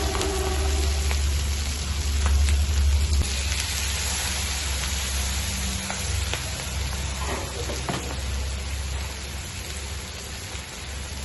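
Food frying in a pan of hot oil: a steady sizzle with faint scattered ticks, over a low rumble.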